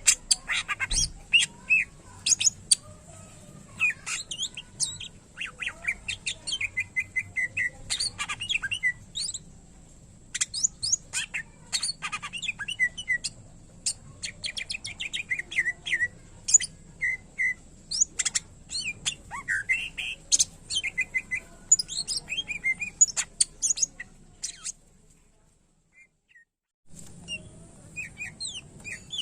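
Cucak ijo (green leafbird) singing a fast, unbroken run of chirps, trills and whistled phrases, a song packed with mimicked calls of other birds. It cuts out for about two seconds near the end, then starts again.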